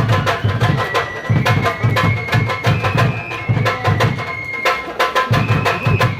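Kagura shrine music: a taiko drum beaten in quick runs of strokes, with short pauses, under a high bamboo flute holding long notes that step up in pitch.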